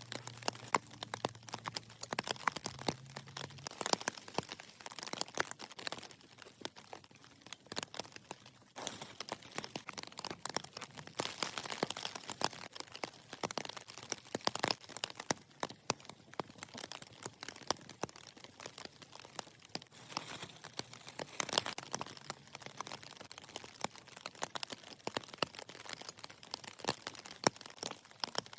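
Vegetables being peeled and prepared by hand: irregular scraping, tearing and crackling strokes, busier in stretches.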